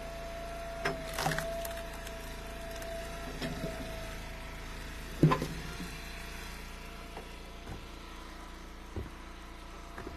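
Split ash firewood pieces knocking and clattering as they are handled and tossed, about six knocks with the loudest about five seconds in. Under them runs the steady hum of the wood splitter's engine.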